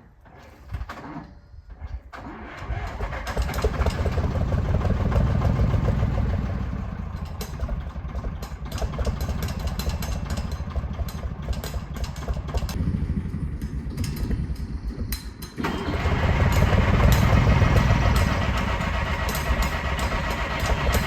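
Diesel tractor engine being started after running out of fuel: it catches about two seconds in and runs unevenly, sags for a couple of seconds around two-thirds of the way through, then comes back louder. The engine is struggling to keep running after being run dry.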